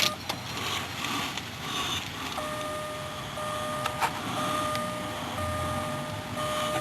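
A car's electronic warning tone sounding steadily, with short breaks every second or so, from the 2008 Ford Fusion's dashboard as it is readied for a cold start. There is a single sharp click about four seconds in.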